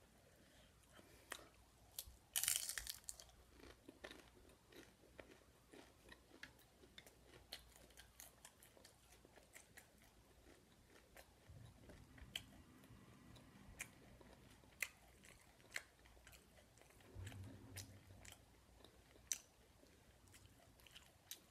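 Faint mouth-close chewing and crunching of a messy taco with lettuce, tomato and cheese, with small clicks and rustles of fingers picking through the food in the bowl. One louder crunch comes about two and a half seconds in.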